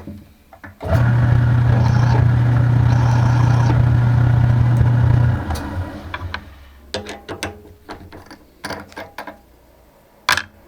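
An electric machine motor starts and runs with a steady hum for about four seconds, then winds down. A run of light clicks and knocks follows.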